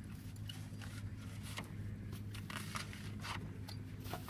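An engine running low and steady, with scattered short clicks and crunches over it.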